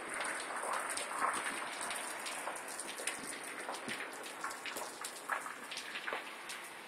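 Water drops pattering and dripping onto a surface: many small, irregular ticks over a soft steady hiss.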